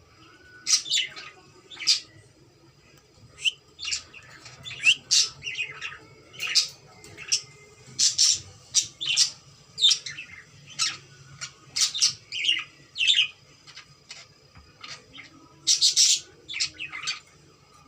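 Cockatiel chirping and squawking: a long, irregular string of short, shrill calls, some of them sliding in pitch.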